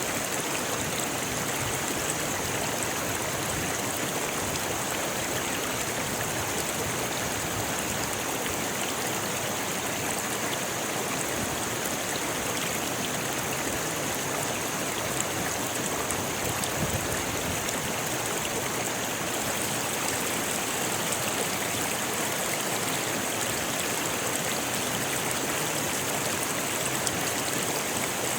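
A rocky river rushing steadily over stones, a continuous even wash of water with no breaks.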